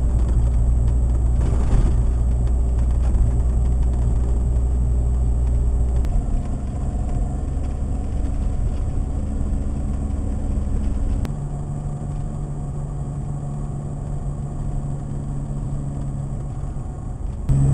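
Jeep Wrangler engine and road noise heard from inside the cab while driving, running steadily. The engine note shifts twice, about six and eleven seconds in.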